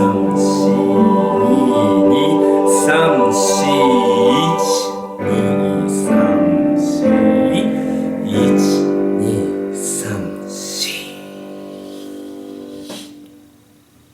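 A choir singing with piano accompaniment, closing the phrase on a long held chord that fades away about 13 seconds in.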